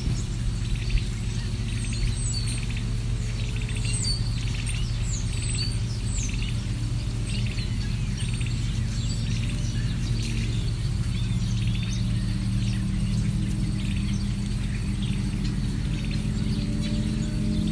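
Several birds chirping and calling in short, quick phrases over a steady low hum, which grows louder near the end.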